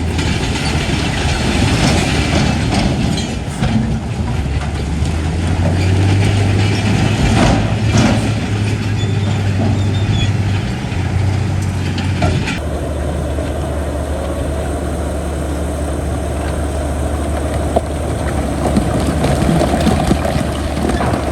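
Heavy diesel engine of earthmoving machinery running steadily, with a few sharp knocks about a third and halfway through. The sound changes abruptly a little past halfway.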